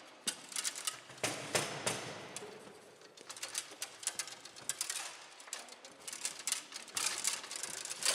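Foosball play on a Bonzini table: sharp clacks of the ball struck by the players' figures and knocks of the rods, coming in irregular quick runs.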